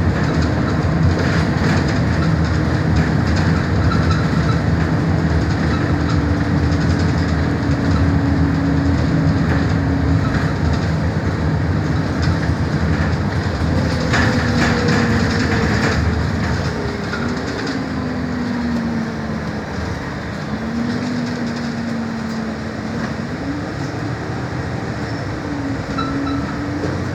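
MAN Lion's City city bus under way, heard from inside: a continuous drive rumble with road noise and rattles. About two-thirds of the way through it gets quieter, and the drivetrain's hum falls and then climbs again in steps as the bus slows and pulls away.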